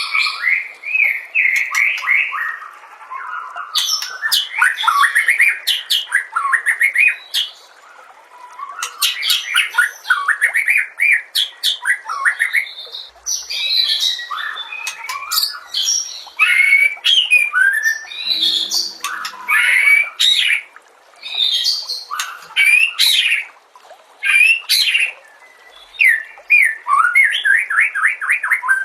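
White-rumped shama (murai batu) singing a long, varied song: fast runs of repeated notes, rising and falling whistled glides and sharp high clicks, in phrases with short pauses between them. The song is packed with mimicked phrases of other birds.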